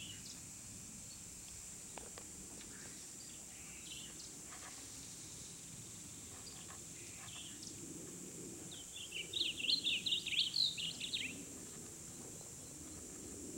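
Outdoor birdsong: scattered short chirps, then a quick run of rapid high chirping notes about two-thirds of the way through, the loudest sound here, over a steady high hiss.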